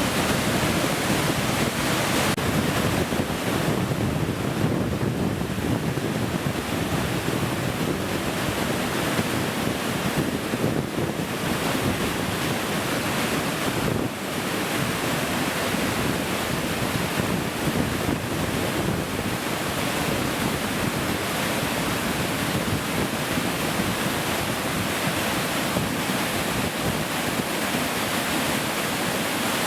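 Flash-flood torrent rushing down a mountain creek channel: a steady, loud roar of fast water, briefly dipping about halfway through.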